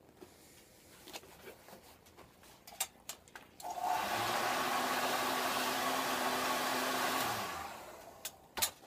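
Electric heat gun switched on about four seconds in, blowing steadily with a low motor hum for about four seconds, then switched off and winding down, warming the seat's vinyl cover so it will stretch. A few sharp clicks come before it and a louder click near the end.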